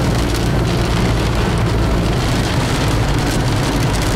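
Heavy rain drumming steadily on a car while it drives, with a constant low rumble of road and engine noise underneath.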